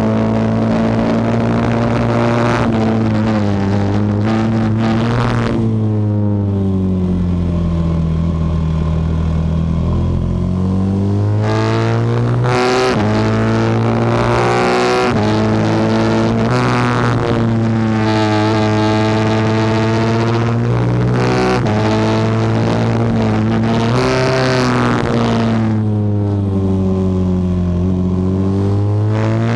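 Norton Manx single-cylinder racing motorcycle engine at full throttle, heard onboard. Its pitch climbs through the gears with a short dip at each upshift, and falls away over several seconds twice, around 6–10 s and again about 24–27 s, as the bike slows for corners, before picking up again.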